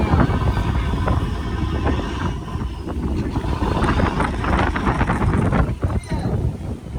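Heavy wind buffeting the microphone on a fishing boat at sea: a loud, steady low rumble with scattered short knocks through the middle.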